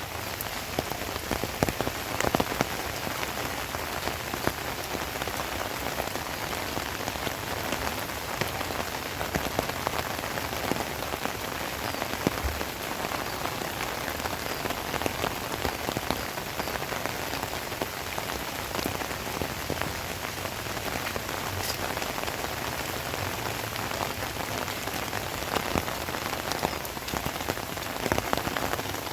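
Heavy rain falling steadily: a dense, even hiss of rain with many sharp individual drop taps on nearby surfaces.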